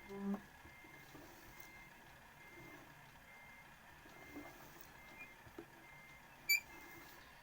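Car's reversing warning beeper sounding faintly and evenly, a short high beep about every 0.8 seconds, while the car backs up. A brief low-pitched sound comes just after the start, and a sharp high chirp about six and a half seconds in.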